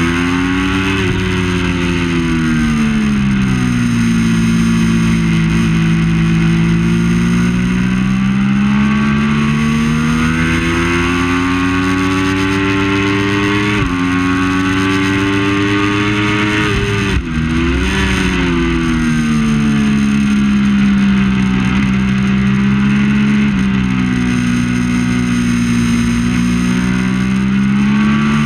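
Triumph Daytona 675 inline-three engine at racing speed, its revs rising and falling repeatedly, with a sudden drop in pitch about halfway through and a brief dip a few seconds later before the revs climb again.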